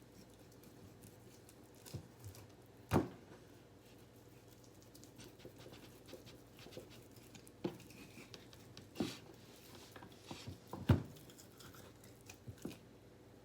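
Scattered soft knocks and taps of a knife on a cutting board and of meat being handled while deer loin is sliced, the firmest knocks about three seconds in and near eleven seconds.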